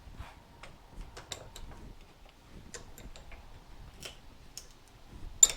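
Irregular light clicks and taps of metal fork parts and tools being handled at a workbench, with one sharper knock near the end.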